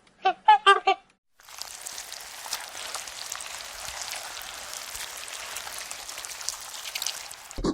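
A few short pitched animal calls in the first second. Then a steady hiss with scattered faint crackles runs until near the end.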